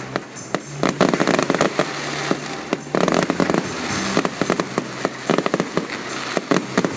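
Fireworks display going off: a dense, irregular run of bangs and crackling reports, over a steady low hum.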